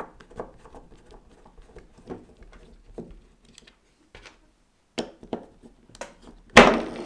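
Small clicks and taps of parts being handled while a model locomotive's plastic motor block is taken apart, then a sudden loud clatter near the end as something comes loose.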